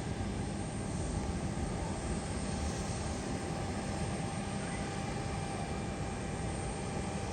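Airliner engines running steadily: an even rushing noise with a thin, steady whine over it.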